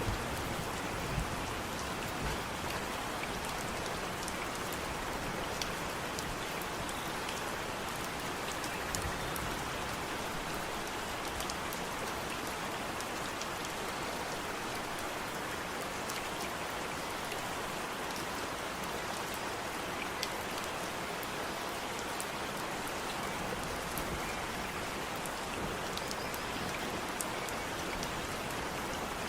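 Steady rain falling: an even hiss with scattered close drops ticking.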